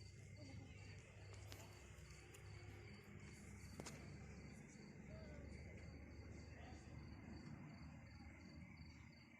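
Cricket chirping faintly in a steady, evenly pulsed high trill, over a low rumble and a couple of faint clicks.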